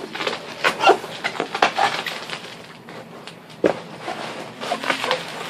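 Packaging being handled and torn open during an unboxing: irregular rustling and scraping, with one sharp knock about three and a half seconds in.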